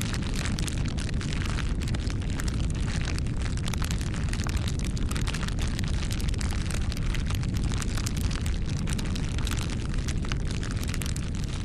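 Wood campfire burning, with a steady low rumble of flames and many irregular sharp crackles and pops.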